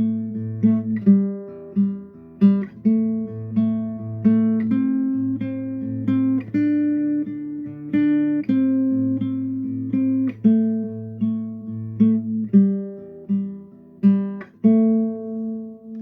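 Acoustic guitar played as an instrumental, with plucked, picked notes over a low bass line at roughly two notes a second. Near the end a last chord is struck and left to ring out.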